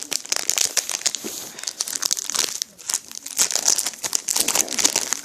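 Foil booster-pack wrapper crinkling and crackling as it is handled and opened by hand.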